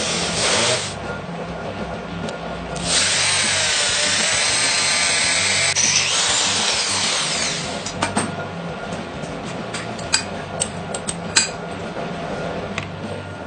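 A handheld power tool runs in a brief burst, then for about five seconds with its pitch wavering under load, followed by scattered sharp metallic clicks and taps.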